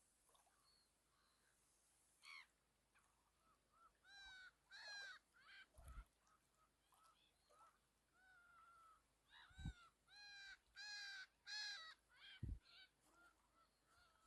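Birds calling: a run of short repeated calls about four seconds in, and another from about nine to twelve seconds, with a few soft low thumps in between.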